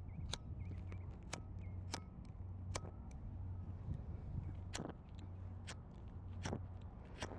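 Outdoor ambience: a steady low rumble with sharp clicks or snaps every second or so, and faint high chirps during the first second.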